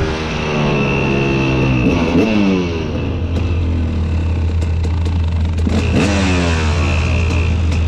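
Motor vehicles driving past one after another, each engine note dropping in pitch as it goes by, about two seconds in and again about six seconds in, over a steady low engine hum.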